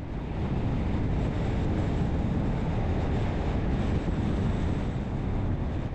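Road and engine noise of a vehicle driving on a highway, a steady rush that swells just after the start and eases off near the end.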